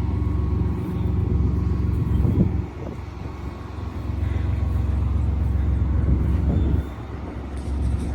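A 1998 Chevy 1500's 4.3-litre V6 engine running, getting louder twice and dropping back suddenly, about three seconds in and again near the end.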